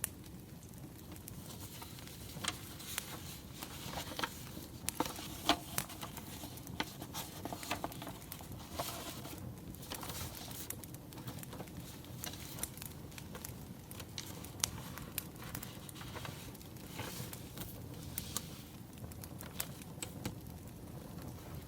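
Wood fire crackling, with irregular pops and snaps over a low steady rush.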